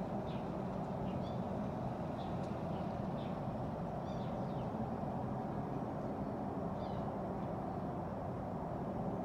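Small birds chirping in short, scattered calls, several falling in pitch, over a steady low background rumble.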